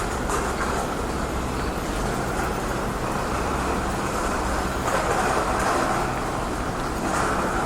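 Road traffic: cars passing, their tyre and engine noise swelling as each goes by, most strongly about five seconds in and again near the end.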